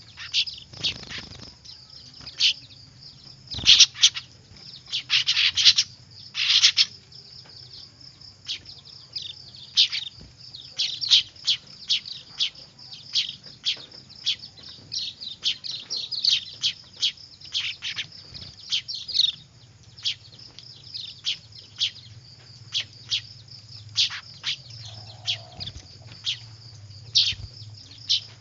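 Young weaver birds (manyar chicks) chirping noisily: a rapid string of short, sharp chirps, several a second, with a burst of louder calls about four to seven seconds in. A steady high hiss runs underneath.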